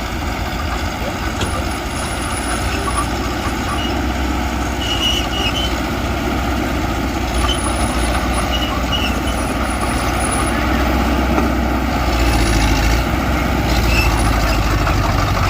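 Heavy diesel engine of earthmoving machinery running steadily under load, with a deep rumble that grows a little louder about twelve seconds in.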